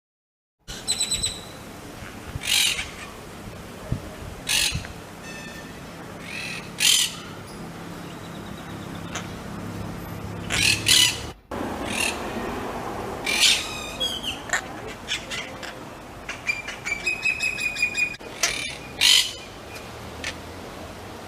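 Pet Quaker parrots (monk parakeets) squawking and chirping in sharp, loud calls every couple of seconds, with a quick run of short repeated chirps about three-quarters of the way through.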